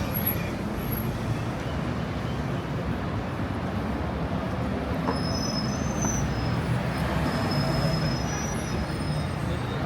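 City street traffic rumbling steadily, with thin high-pitched squealing in the second half.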